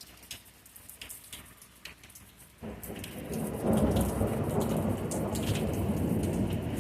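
Scattered raindrops tapping, then about two and a half seconds in a roll of thunder starts suddenly and rumbles on, loudest about a second later.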